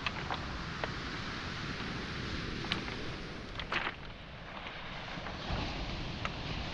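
Steady wash of waves on a pebble shore, with scattered sharp clicks of footsteps on pebbles and small boulders, a louder pair of clicks a little under four seconds in.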